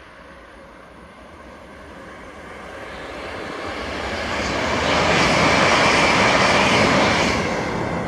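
ScotRail passenger train passing: a rushing noise of the train's run that swells over a few seconds, is loudest in the middle and begins to fade near the end.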